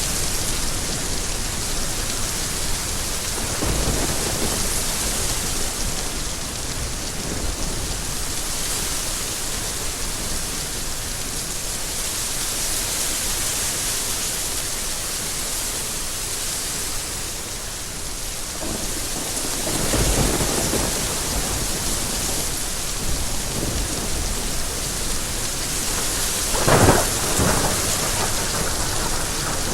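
Steady rain falling, with low rolls of thunder rumbling twice and a sharper, louder thunderclap near the end.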